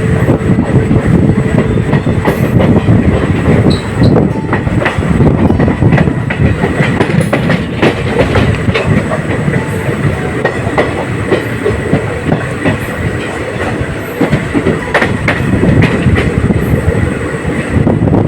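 Passenger train coaches running along the track, a steady rumble with the wheels clicking irregularly over rail joints.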